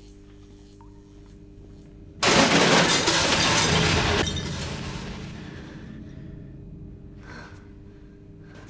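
A sudden loud crash about two seconds in, a noisy smash that holds for about two seconds and then dies away over the next few, over a low steady hum.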